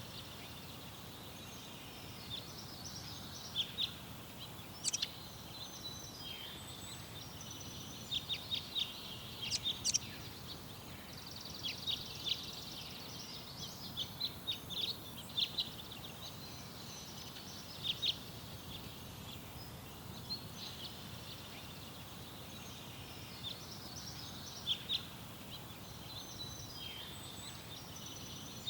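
Small garden songbirds chirping and twittering, with short calls and trills coming in irregular clusters over a steady low background rumble.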